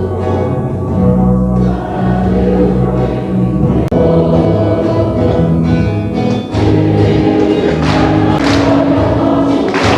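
Choir singing a slow church hymn with instrumental accompaniment, in long held notes.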